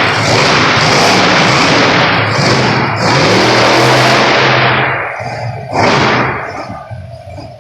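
Monster truck engine running hard at high revs, loud and steady, then dropping off about five seconds in, with one more short loud burst near six seconds.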